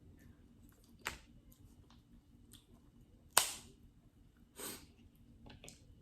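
Eating sounds close to the microphone during a seafood boil: a few sharp clicks and cracks, the loudest about three and a half seconds in, with a short rustling burst after it.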